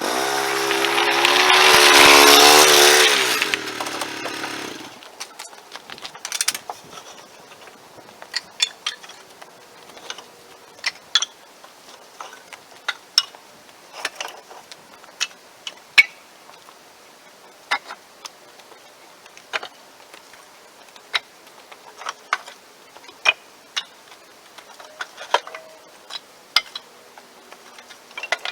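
An engine runs loud, then winds down in pitch and stops about four to five seconds in. After it stops come sparse, irregular sharp ticks and clicks, roughly one a second.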